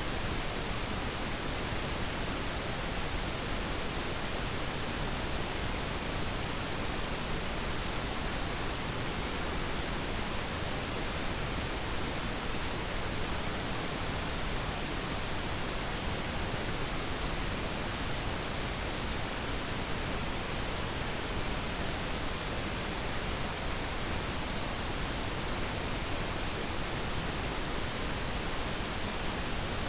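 Steady pink noise: an even, unchanging hiss with no other sound in it.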